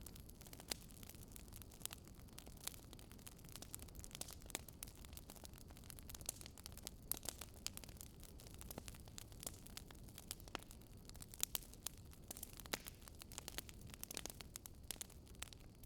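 Fireplace wood fire crackling: irregular sharp pops and snaps, many per second, over a steady low rumble.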